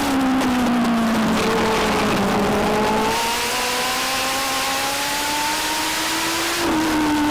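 Legend race car's Yamaha 1250 cc four-cylinder motorcycle engine under racing load on a short oval: the pitch drops as the driver lifts for a turn, climbs steadily for about five seconds under acceleration, then drops again near the end for the next turn.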